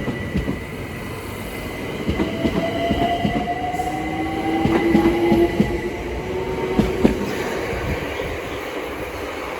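Class 378 Electrostar electric multiple unit pulling away, its traction motors giving a whine that rises slowly in pitch, over clicks of wheels on rail joints.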